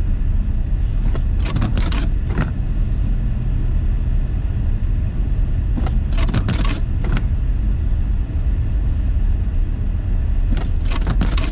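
Steady low rumble of a car's engine and tyres heard from inside the cabin while driving on a snowy road. Three short clusters of sharp clicks break in, about a second in, about six seconds in, and near the end.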